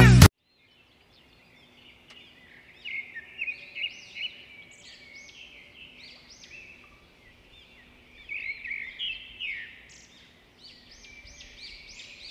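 Songbirds chirping: quick runs of short, high rising-and-falling notes, starting about two seconds in after a moment of near silence.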